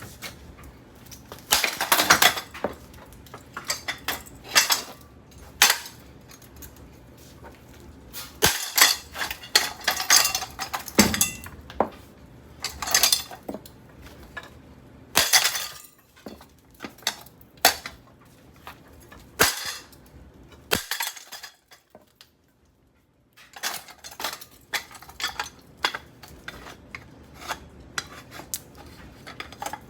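Irregular metal-on-metal clanks and bangs from the all-metal motor housing of a Craftmade ceiling fan being forced apart by brute force. The hits come in clusters with quieter spells between, and there is a short dead gap about two-thirds of the way through.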